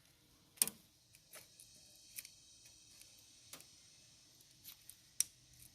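A few sharp, irregular metallic clicks and taps of hand tools working on the engine's valve train while the valve clearance is set.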